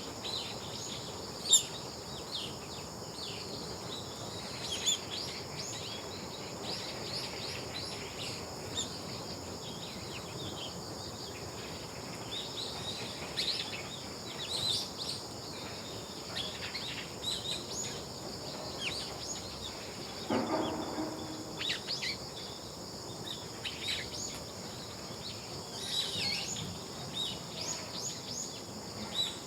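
Birds chirping and calling on and off over a steady, high-pitched insect drone. One brief, lower-pitched call stands out about twenty seconds in.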